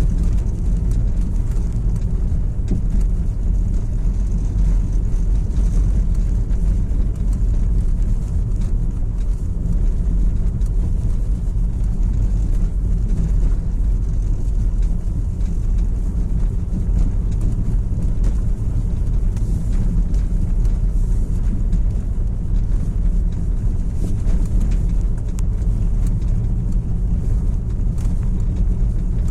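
Steady low rumble of a car on the move, engine and road noise, holding an even level throughout.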